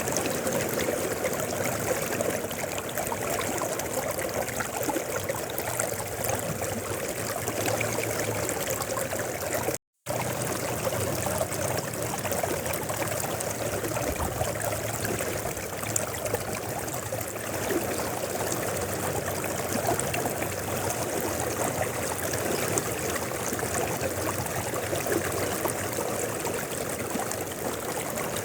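River water flowing over rocks, a steady rushing and trickling. The sound cuts out for a split second about ten seconds in, then resumes unchanged.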